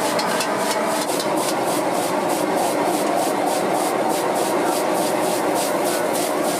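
A gas wok burner running with a steady, loud rushing sound while food is stir-fried in the wok, a quick even scraping about four or five strokes a second.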